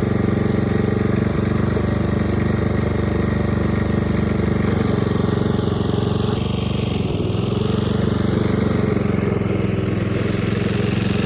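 The engine of a mid-to-late-1980s Snapper riding mower runs steadily as the mower is driven up a steep incline. This is a test of whether the rebuilt transmission clutch still slips under load.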